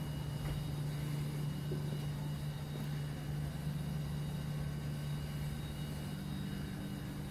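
1971 Oldsmobile Cutlass's 455 cubic-inch V8 idling steadily with a low, even rumble.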